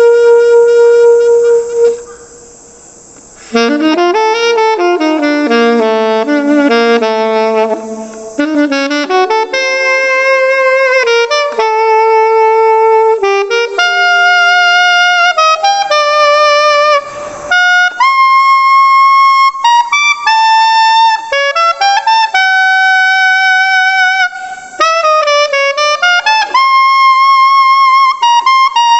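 Solo alto saxophone played unaccompanied, with a bright, punchy non-classical mouthpiece tone. A held note breaks off about two seconds in, then fast runs, bending glides and sustained notes follow.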